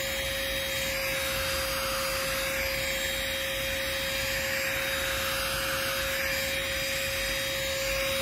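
Chuboor handheld car vacuum running steadily, a constant motor whine over the rush of air, as it sucks pet fur off upholstery.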